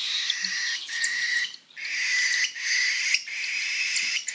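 Baby birds giving begging calls: a run of drawn-out, hoarse calls broken by short pauses, with one longer break about a second and a half in.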